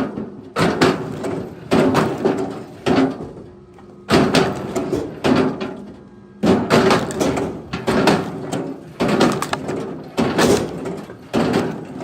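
Repeated heavy knocks of wood on wood, about one a second, each with a short ringing decay, from firewood being chopped or thrown onto a pile.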